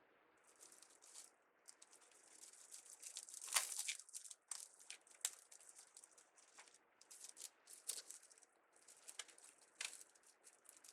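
Faint crinkling rustles and scattered light clicks from craft materials being handled on a deco mesh wreath. The loudest rustle comes about three and a half seconds in.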